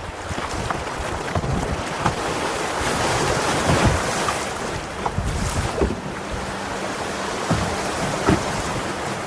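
River water rushing and splashing, with wind buffeting the microphone and scattered short knocks. It swells loudest about three to four seconds in, and a faint steady hum comes in past the middle.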